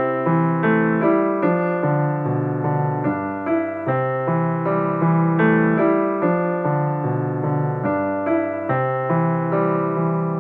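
Background piano music: a slow run of chords and single notes, each struck note ringing and fading, in a gentle steady pulse.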